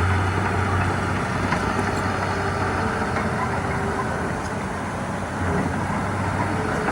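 Heavy diesel engine running steadily with a low drone, easing off slightly about four to five seconds in and then picking back up.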